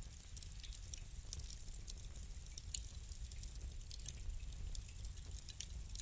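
Wood fire crackling: irregular sharp snaps and pops over a low, steady rumble of the burning fire.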